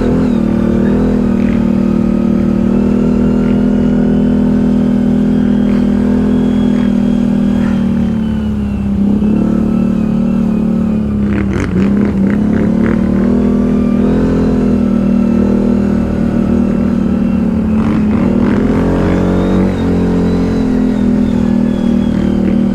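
ATV engine running steadily under way, its pitch dipping and picking up again a few times. A short cluster of knocks comes just before the middle.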